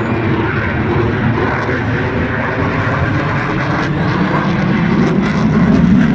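A fixed-wing aircraft's engine noise, a loud steady roar that swells slightly near the end as the plane passes.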